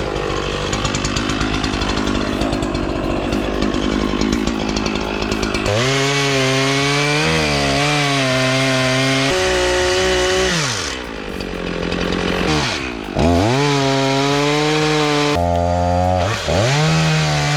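Chainsaw cutting through wood, then running at high revs with the throttle let off and opened again, so the engine pitch falls and climbs back a few times in the second half.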